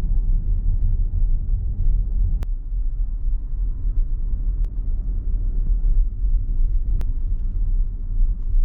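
Steady low road and tyre rumble inside the cabin of a moving Tesla, an electric car with no engine note. A few faint clicks come through it.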